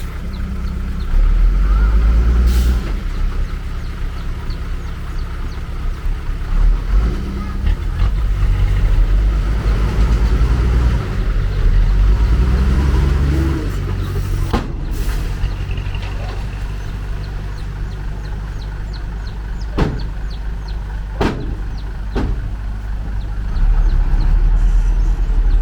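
Heavy earthmoving machine's diesel engine running under changing load, rising and falling in level, with several sharp knocks, most of them in the second half.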